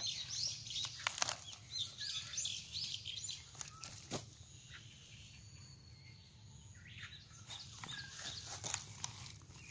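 Small birds chirping in short runs of calls, with a couple of sharp clicks among them.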